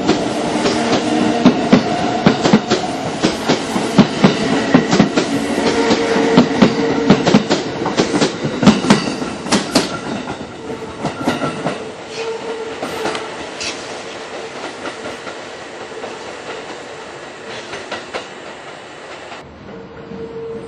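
Kintetsu electric train moving through the station, its wheels clacking quickly over the rail joints over a steady motor hum. The sound dies away after about ten seconds, leaving quieter train running with occasional clicks.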